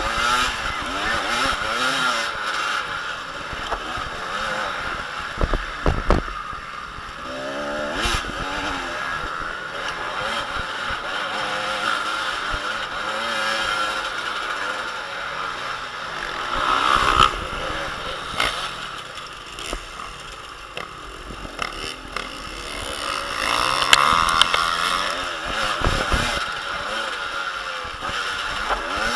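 Motocross motorcycle engines revving up and down as the bikes race around the track, pitch rising and falling with each throttle change. The sound swells twice as bikes pass close, about halfway through and again near the end, with a few sharp knocks along the way.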